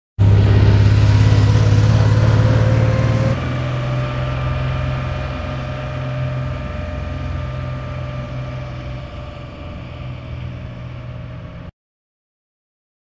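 1965 Porsche 911's air-cooled flat-six engine running, its pitch creeping up for the first three seconds, then changing abruptly and fading steadily as the car drives away, until the sound cuts off suddenly near the end.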